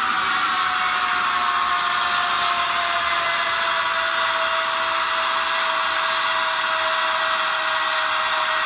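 ESU LokSound decoder playing a JR Freight EF210 electric locomotive's inverter and blower sound through the model's small speaker: a steady hiss with several whining tones that fall slowly in pitch, as the inverter does when the locomotive slows.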